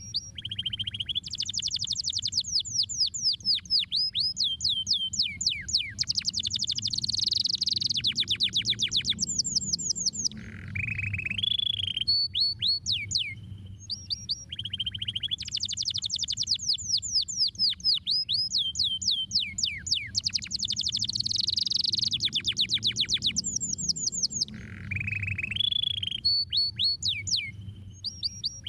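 Domestic canary singing, a song of fast high trills made of rapidly falling notes, over a steady low hum. The same song sequence repeats about every 14 seconds.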